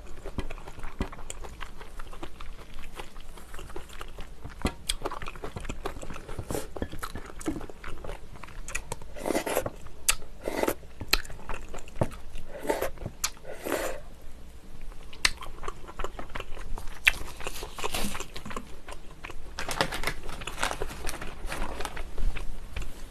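Close-miked chewing and biting of braised kimchi stew with pork and noodles, full of small wet clicks and smacks; the mouth noises come thicker and louder about halfway through and again a few seconds before the end.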